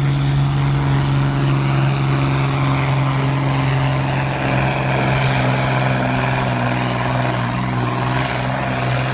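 Volvo BM 810 pulling tractor's swapped-in 9-litre Volvo diesel engine, converted to a mechanical Bosch injection pump, running hard at steady high revs under load during a pull.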